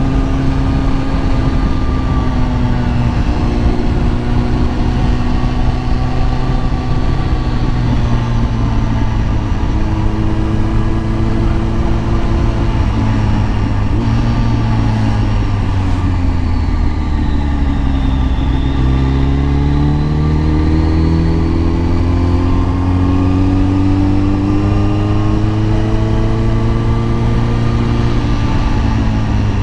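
Kawasaki ZX10R's inline-four engine running under way. Its pitch holds fairly steady with a few steps as gears change, then falls for several seconds as the bike slows, and rises again as it picks up speed about two-thirds of the way through.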